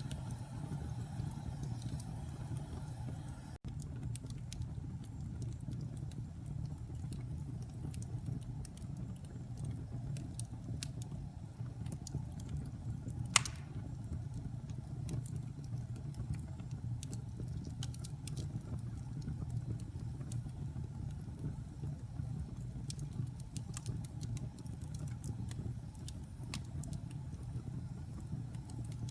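Wood fire burning in a fireplace: a steady low rumble of flames with scattered small crackles and one sharp pop about thirteen seconds in.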